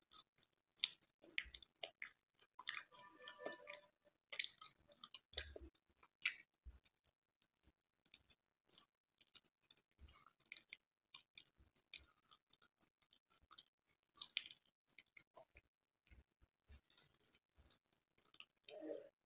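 Close-miked mouth sounds of a person chewing a soft, nut-topped sweet: irregular wet smacks and clicks, with no words.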